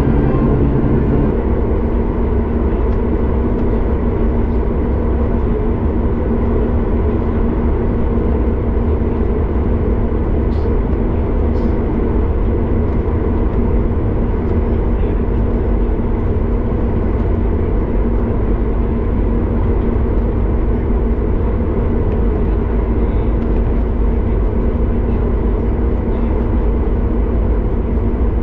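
Steady cabin noise of a Boeing 737 MAX 8 taxiing: its CFM LEAP-1B engines running at taxi power, heard from inside the cabin as an even low rumble with a steady hum.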